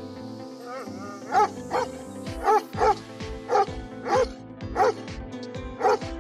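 A dog barking repeatedly, about nine short high barks starting about a second in, over steady background music.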